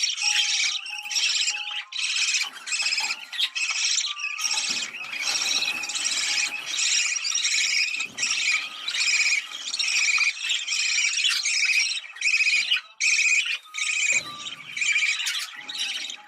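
Budgerigars chattering and warbling without a break: rapid, high, scratchy chirps with a few short whistled notes.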